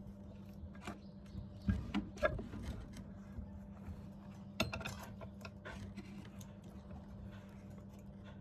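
Scattered light knocks and scrapes of sheet metal being handled, a few sharper taps about two seconds in and near five seconds, over a steady low hum.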